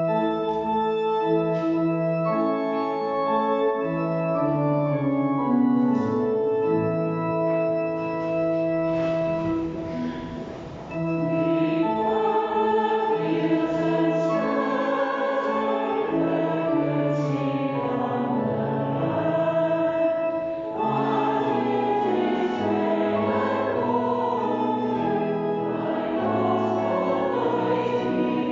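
A church congregation singing a familiar harvest hymn with organ accompaniment, recorded during a worship service. The singing dips briefly between lines about ten seconds in and again near twenty-one seconds.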